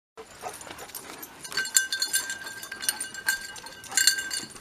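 Small metal bell jingling in quick, irregular jangles, beginning about a second and a half in.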